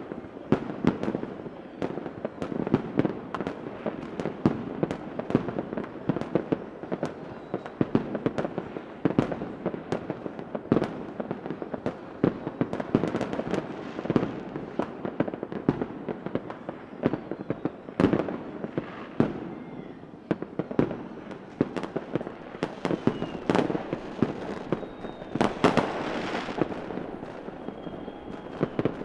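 A fireworks display: many booming bangs at irregular intervals over a continuous crackle, with a few faint whistles from rising rockets.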